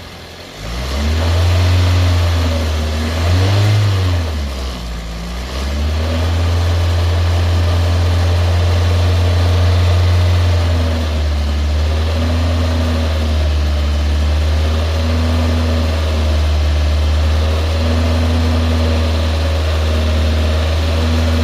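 Car engine revved up and down twice over the first few seconds, then held at a steady raised speed, as a vacuum reading is taken through the brake booster hose to check for a failing fuel pump.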